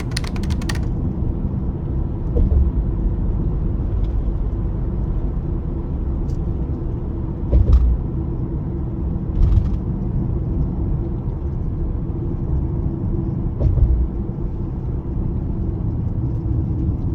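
Steady low rumble of road vehicles, with a few brief low bumps, the loudest about eight seconds in.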